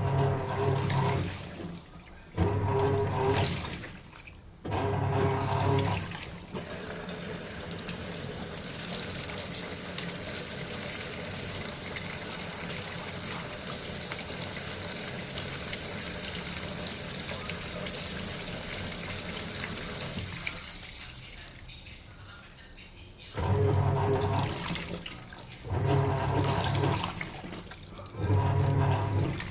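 Sharp washing machine's motor turning the drum in short humming bursts of about a second and a half, pausing between each. In the middle stretch the bursts stop and water runs steadily into the machine for over ten seconds. The humming bursts start again near the end.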